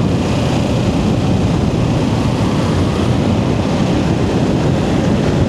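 Steady wind buffeting on the microphone of a Kawasaki Ninja 650 motorcycle being ridden, with the bike's engine running underneath.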